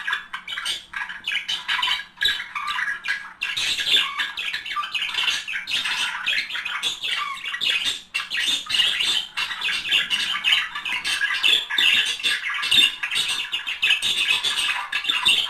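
A pair of budgerigars warbling and chattering without a break, a fast jumble of chirps and squawks.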